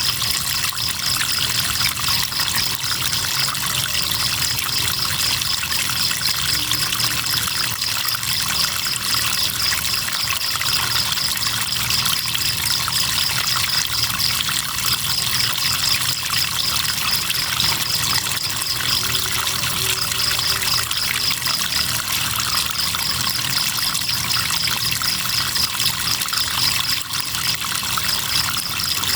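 River water trickling and flowing steadily, with crickets chirping in a fast, even pulsing trill that breaks off briefly now and then.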